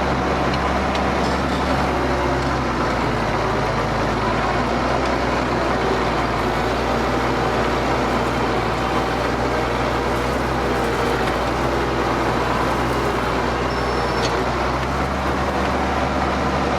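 Ford TW tractor's diesel engine running steadily under load while pulling a plough.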